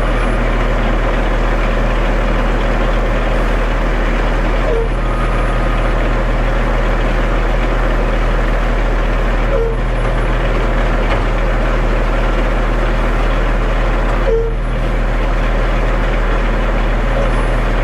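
Concrete mixer truck running steadily with its drum turning as it discharges concrete, the drum rattling: a rattle the driver takes as a sign the load is nearly out. Three short squeaks come about five seconds apart.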